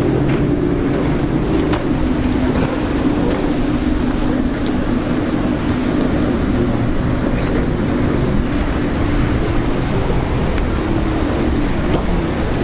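Motorboat engines running as a boat passes through the inlet, their hum strongest in the first few seconds and then fading, over steady wind and surf noise.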